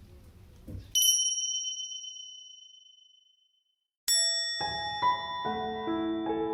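A bright bell-like chime, an added editing sound effect, rings once about a second in and fades away. A second chime strikes about four seconds in, and gentle piano background music begins right after it.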